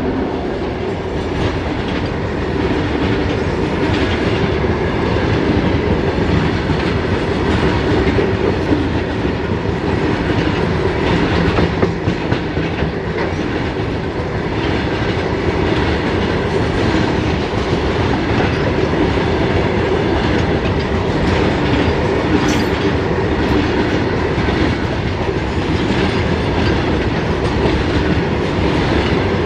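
A freight train's BCNA covered wagons rolling past close by, their steel wheels clattering steadily over the rail joints under a continuous rumble.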